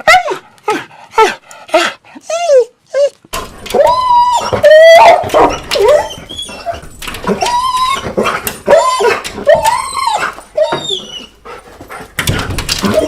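Dogs whining and whimpering: quick high cries falling in pitch for the first few seconds, then, after a change of recording about three seconds in, longer whines that rise and fall in pitch, with another run of short cries near the end.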